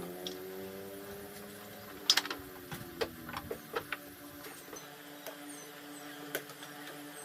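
A steady mechanical hum with a run of sharp clicks and knocks, the loudest about two seconds in.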